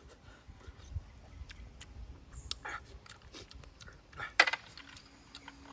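Close-miked eating sounds of a man chewing roasted snail meat: wet chewing and smacking with scattered small clicks, and one louder sharp click about four and a half seconds in.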